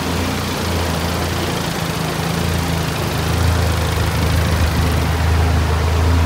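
Steady low drone of a turbocharged four-cylinder car engine idling, under a constant rush of air from shop cooling fans.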